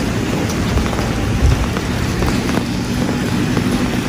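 Steady rain falling, with a vehicle engine running under it as a low, steady hum.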